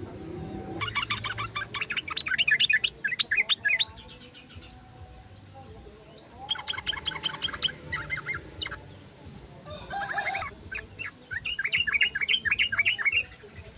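Yellow-vented bulbul (trucukan) singing its bubbly, chattering song in three bursts of rapid notes: the first starts about a second in, the second comes around the middle, and the third runs until just before the end.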